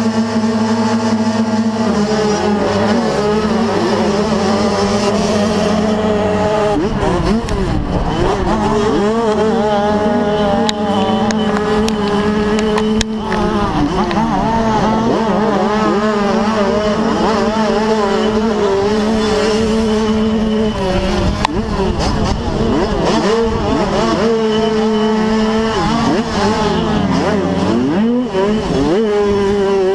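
A pack of 85cc two-stroke motocross bikes running together. Engines hold steady revs at first, then many engine pitches rise and fall with the throttle as the bikes race.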